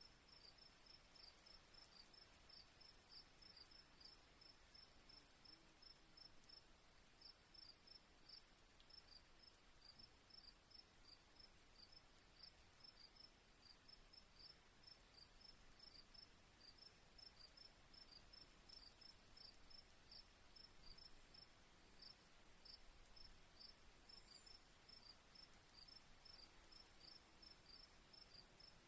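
Faint crickets chirping: short chirps repeated a few times a second without pause, over a steady high-pitched insect trill.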